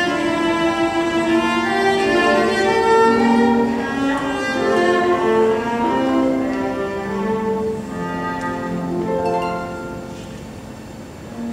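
Music played on bowed string instruments, several parts sounding together in held, changing notes; it grows quieter near the end.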